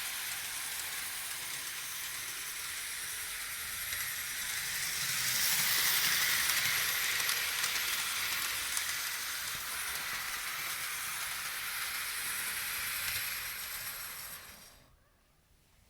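Model steam train running, a steady hiss with a rushing, rattling edge that grows louder a few seconds in and then stops abruptly about a second before the end.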